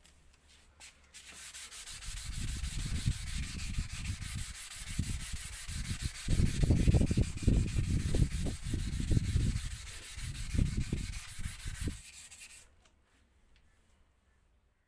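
Handheld electric paint sprayer running and spraying, a steady hiss of air and atomised paint with uneven low buffeting, for about eleven seconds before it cuts off.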